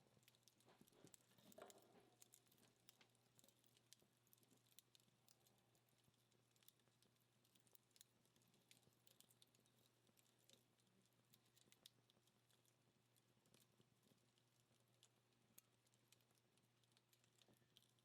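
Faint crackling of a dying wood fire: sparse small pops and ticks from burning-down firewood, a little busier in the first couple of seconds, over a faint steady hum.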